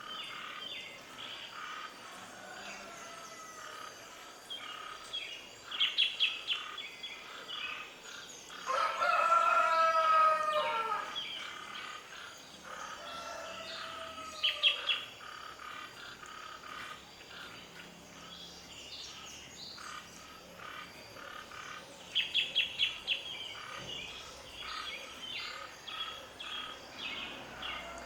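Small birds chirping in quick bursts of rapid notes, with a rooster crowing once, long and falling in pitch, about nine seconds in.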